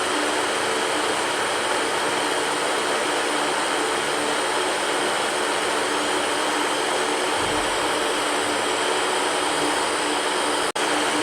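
Electric fan running steadily: a continuous even whoosh of moving air with a faint low hum, broken by a split-second dip near the end.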